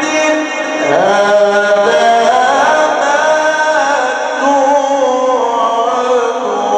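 A man chanting the Quran in a slow, ornamented melodic style, holding long notes that slide and waver between pitches.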